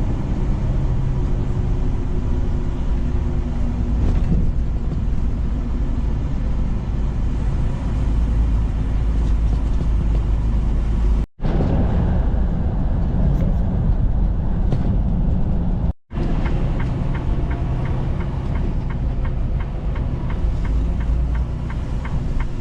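Inside a moving semi-truck's cab: steady diesel engine and road rumble. A fast, regular light ticking joins for the last several seconds.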